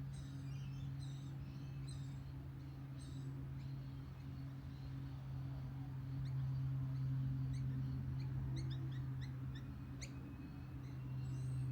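Robotic lawn mower running with a steady low hum. Birds chirp over it: a run of repeated chirps in the first few seconds, then quick high chirps and whistles from about six to ten seconds in.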